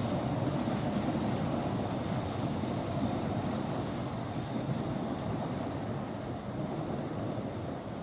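Train running on the rails, a steady rumble that slowly fades as it draws away.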